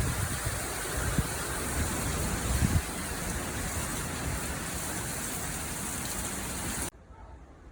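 Heavy rain falling: a steady, dense hiss that cuts off suddenly near the end.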